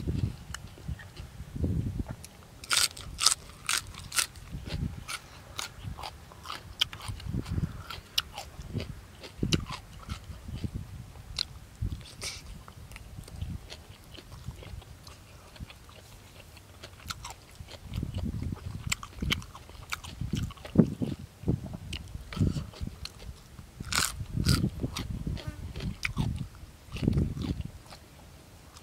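Close-miked eating: a man chewing boiled buffalo offal and raw green vegetables with his mouth open, with wet chewing throughout and crisp crunchy bites that come in runs about three seconds in and again near the end.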